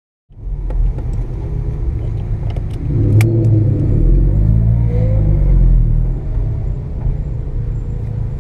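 Mazda RX-7 FB's carbureted 12A rotary engine running, heard from inside the cabin, its pitch rising and falling as the revs change, with a few sharp clicks in the first three seconds.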